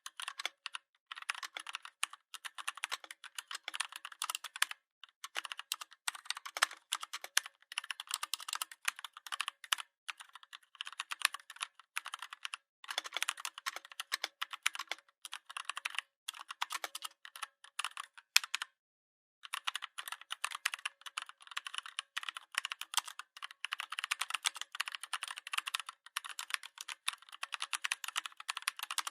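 Typing on a computer keyboard: fast runs of key clicks broken by short pauses, the longest about two-thirds of the way through.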